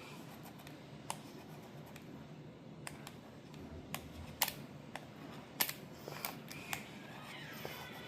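Utility knife blade lightly scoring the surface of an acrylic disc: a faint scratching with a few sharp ticks and clicks scattered irregularly, roughening the acrylic so resin will bond to it.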